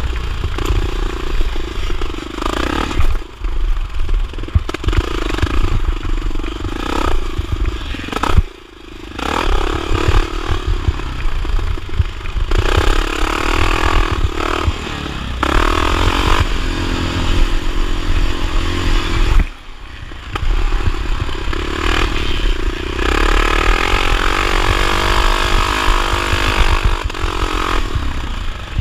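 1979 Honda XR500's single-cylinder four-stroke engine racing on a motocross track, revving up and down as the throttle is worked. The engine note drops off sharply twice, about eight and twenty seconds in, then picks up again.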